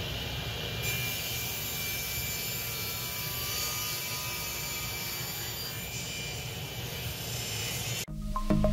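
Table saw running steadily while a walnut board is fed through the blade and cut. About 8 seconds in the saw sound stops and louder background music begins.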